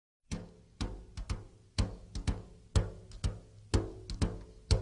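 Drum-kit music with a steady beat, with a strong hit about once a second and lighter hits between, starting abruptly after a moment of dead silence.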